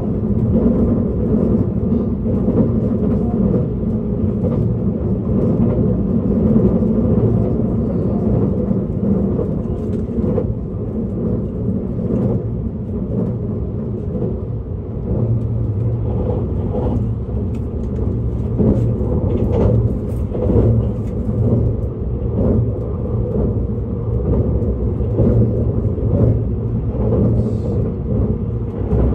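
Inside a JR East E657-series limited express electric train running steadily: a constant low rumble of wheels on rail with scattered light clicks and knocks from the track.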